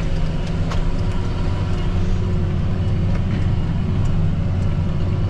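John Deere 8230 tractor's six-cylinder diesel engine running at a steady drone, heard from the cab.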